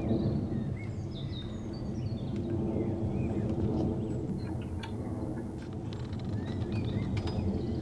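Birds chirping in short calls over a steady low rumble.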